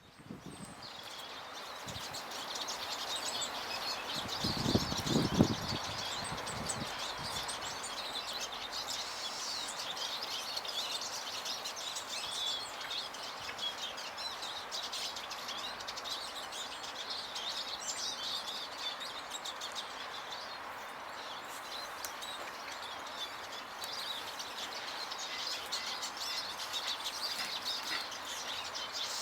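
Small garden birds, tits and finches, chirping and calling busily and without a break, over a steady background hiss. A short, louder low rumble comes about five seconds in.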